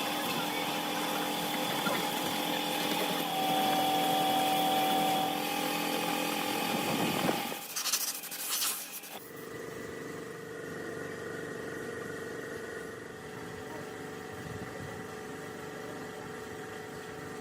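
A small motor runs steadily for about seven seconds, its pitch lifting slightly near the middle. It is broken off by a short burst of rough noise, then a quieter motor hum at a different steady pitch takes over.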